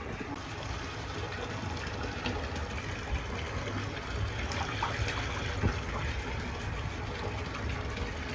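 Water running from a tap into a bathtub: a steady, even rush of filling water.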